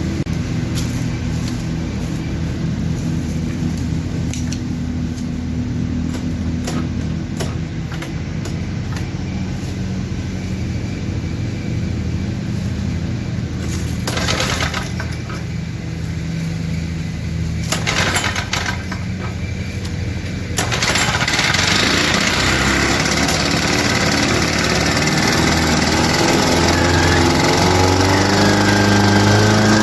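Lawn-Boy 8157 mower's two-stroke engine running steadily. About two-thirds of the way through it abruptly gets louder and its pitch climbs.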